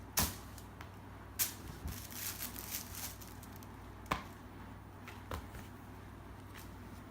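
Kitten play with a cat teaser: scattered sharp taps and rustles, a few single clicks and a short flurry of rustling about two seconds in, over a faint steady low hum.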